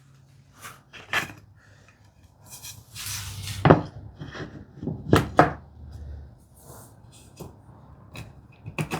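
Wooden strips and tools being handled on a workbench: scattered knocks and clacks of wood on wood, with a short scraping rub about three seconds in and the sharpest knocks shortly after and around five seconds.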